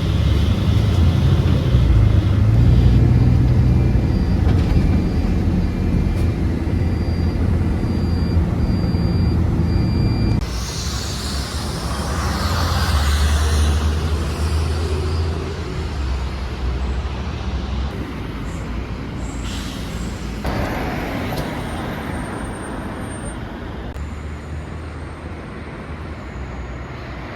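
Road traffic: a heavy vehicle engine rumbling loudly for about the first ten seconds, then a sudden change to quieter street traffic with a hiss, the sound shifting again a few times later on.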